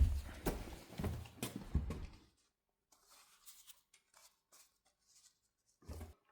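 Handling noise of metal parts and tools: scraping and knocks for about two seconds, then a few faint ticks and one short knock near the end.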